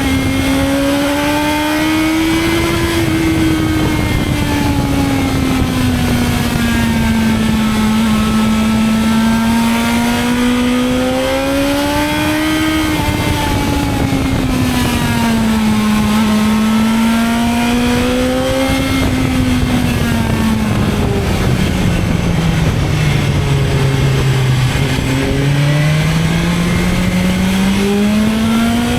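BMW S1000XR's inline-four engine running under way, its note rising and falling gently as the throttle opens and closes, dropping to its lowest a little over three-quarters of the way through before climbing again, over a steady rush of wind and road noise.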